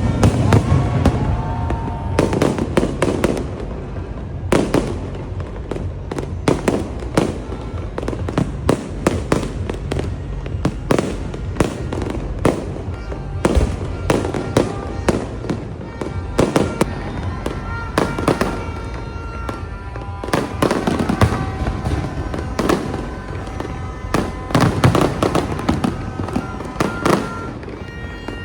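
Fireworks bursting and crackling in rapid, irregular volleys throughout, with music playing along underneath.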